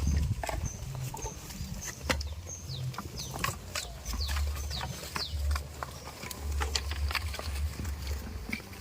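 Farmyard animal sounds: many short, high chirps and quick falling cheeps throughout, over a low rumble.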